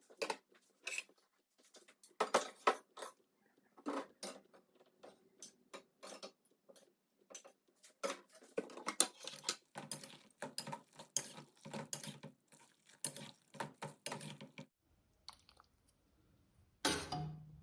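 Kitchen utensils clinking and scraping against pots and dishes in an irregular run of short knocks that thins out near the end, with one louder clatter shortly before it ends.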